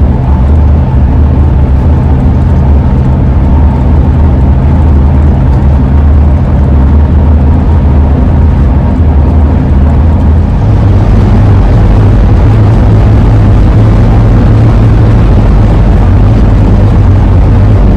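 2001 Ford E-350 camper van driving on the road, a loud continuous drone of engine and road noise with steady low tones; the drone steps up in pitch about ten seconds in.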